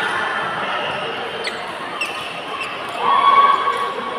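Badminton doubles rally in a sports hall: sharp racket strikes on the shuttlecock and squeaks of court shoes, with players' voices. The loudest moment comes about three seconds in.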